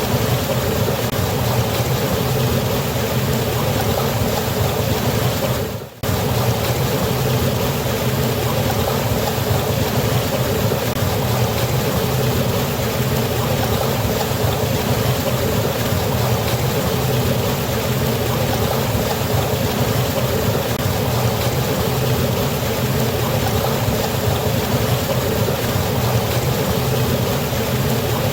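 Waterfall: water falling and rushing in a steady, even roar, with one brief dip in level about six seconds in.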